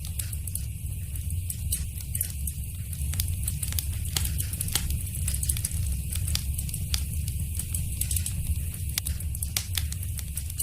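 Wood fire crackling in a fireplace, with frequent irregular pops and snaps over a steady low rumble of the flames.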